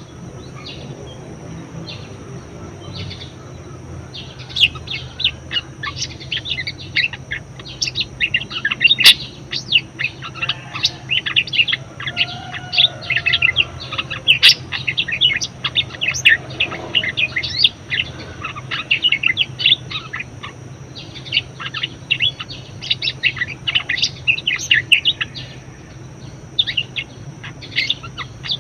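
Budgerigar chattering in a fast run of short, high chirps: sparse for the first few seconds, then dense from about four seconds in.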